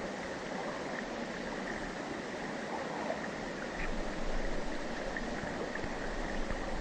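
Mountain river rushing steadily over rocks, an even wash of flowing water, with a faint steady high tone running under it.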